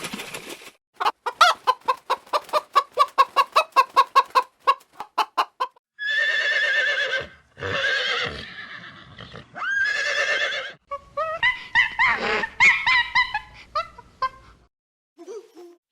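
Chickens calling: a fast run of clucks, then three longer drawn-out calls, then more short clucking.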